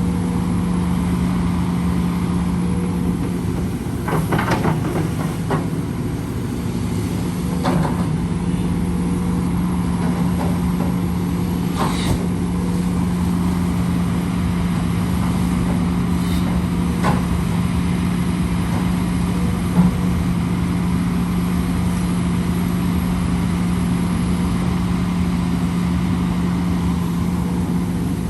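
Heavy machinery engine running steadily at a constant speed while dredging a canal, with a few short clanks and knocks scattered through.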